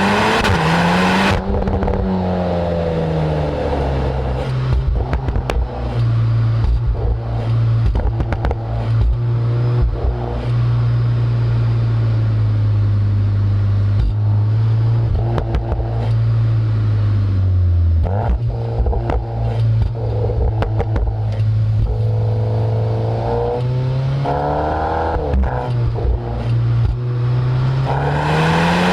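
Exhaust note of a Volkswagen Golf R 8.5's turbocharged 2.0-litre four-cylinder through an Akrapovic exhaust, heard right at the tailpipes. The revs fall from a high pull at the start with scattered short crackles, hold steady at low revs while cruising, dip again, then climb hard under acceleration near the end.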